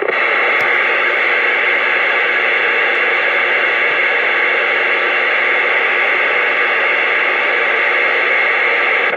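CB radio receiver letting through loud, steady static hiss from the speaker while the operator waits for a reply to his call. The hiss switches on abruptly and cuts off sharply at the end.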